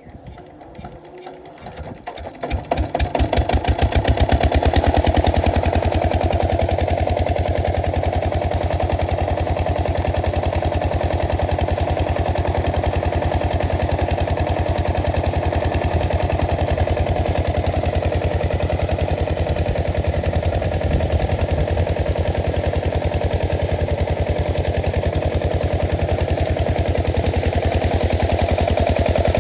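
8 hp single-cylinder diesel water-pump engine starting: its firing strokes come slowly at first, quicken over the first few seconds as it picks up speed, then it runs steadily and loudly at working speed.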